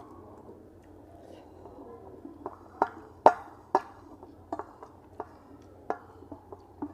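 Close-up eating sounds: about ten irregular sharp crunches and clicks of chewing, starting a couple of seconds in, the loudest a little past three seconds in.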